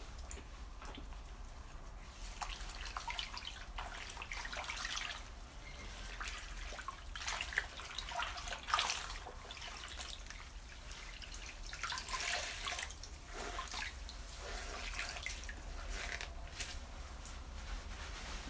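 Water from a tap running and splashing in uneven surges, with small knocks and drips, as things are rinsed under it.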